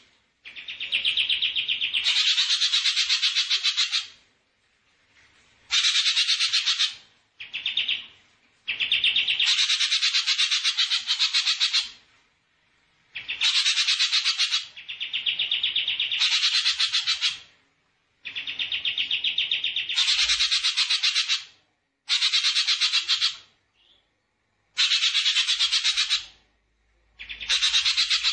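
Rapid, buzzy, finely pulsed trills repeated in bouts of about one to three seconds with short pauses between them, some bouts narrow and high, others spanning a wider range. This is a call played on a master track for training songbirds.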